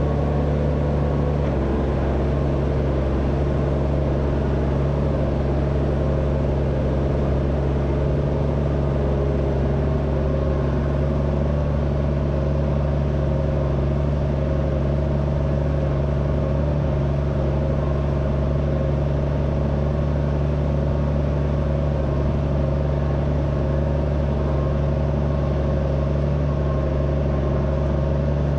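Tractor engine running at a steady speed, a constant low drone that does not rise or fall.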